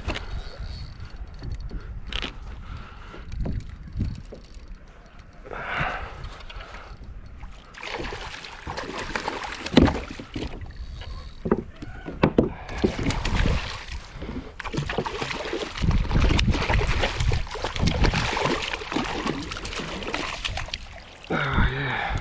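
Knocks, rattles and water splashing on a fishing kayak as a hooked fish is reeled in and brought aboard. The splashing and handling noise grows busier and louder about halfway through.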